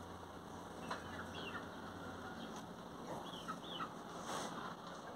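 Faint bird calls in the background: a few short chirps scattered through, some in quick pairs.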